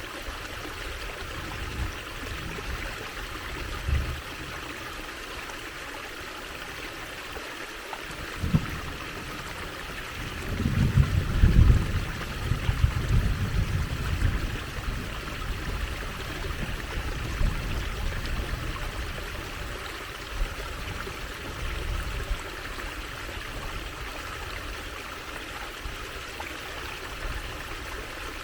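Water trickling steadily. A few brief low thumps and, about ten seconds in, a louder low rumble lasting several seconds lie under the trickle.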